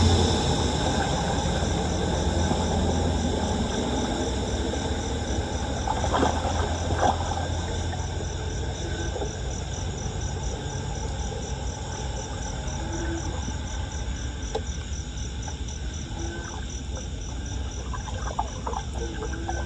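Insects chirping in a steady, evenly pulsed high-pitched rhythm over background outdoor noise, with a low vehicle rumble fading out in the first second.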